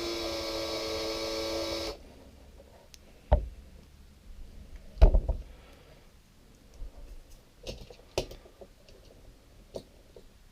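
Small electric drill running steadily with a whine, boring out a plastic pen end, then stopping abruptly about two seconds in. A few knocks and clicks follow as the part is handled, the sharpest one about halfway through.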